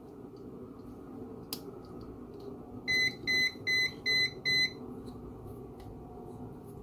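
Five short electronic beeps, evenly spaced at about two a second, over a steady low hum; a single sharp click comes a little before them.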